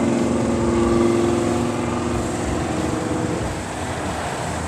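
A passing car's engine running with a steady drone that fades away over the first three seconds or so, leaving street noise.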